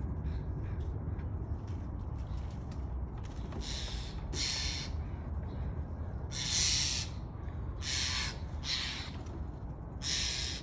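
Jays giving harsh, raspy screeching calls, about six in all, coming in ones and twos.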